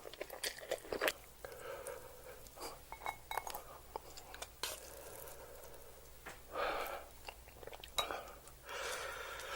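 Close-miked eating of spicy instant noodles: chewing with many small wet mouth clicks, and three longer breathy sounds, about a second and a half in, near seven seconds and just before the end.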